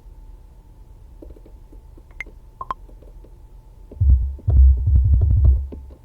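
Deep synthesized bass pattern played back for under two seconds, about four seconds in, in quick low pulses, the loudest sound here. Before it, faint scattered clicks over a faint steady hum.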